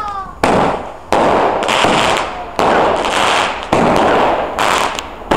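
Fireworks going off: six sharp bangs at irregular intervals, each followed by a crackling hiss that dies away within about a second.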